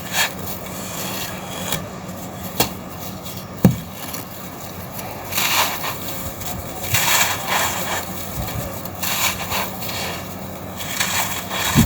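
Red sand-and-dirt cylinders being crushed and crumbled, with gritty crunches that swell several times and a few sharp snaps.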